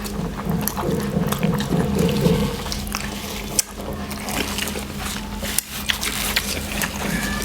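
Wet eating sounds of a person slurping and chewing hot spicy noodles close to the microphone: many quick smacking clicks. A steady low hum runs underneath.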